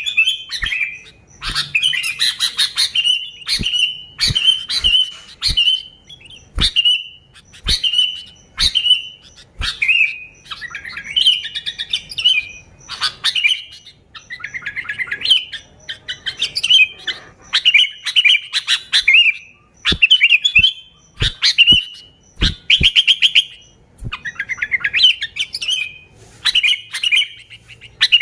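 Sooty-headed bulbul (kutilang) singing: short, bubbly, whistled phrases repeated about once or twice a second, some with fast stuttering notes, with sharp clicks between them.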